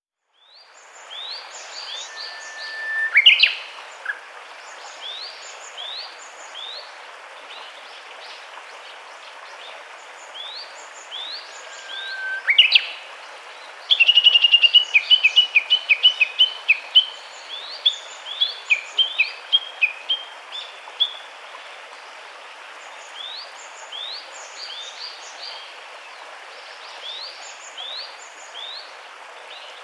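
Birds singing over a steady hiss of outdoor background noise: short rising chirps repeat throughout, with a loud upward-sweeping call about three seconds in and again about twelve seconds in, and a fast run of notes around the middle.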